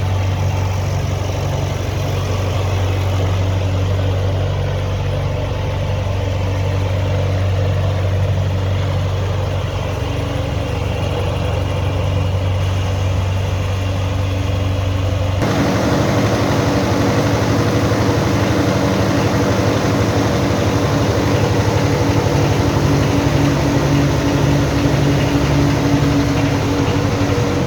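A John Deere 303 vineyard tractor's Standard Motor Company four-cylinder diesel engine running steadily. About halfway through, its note changes abruptly to a busier, higher one.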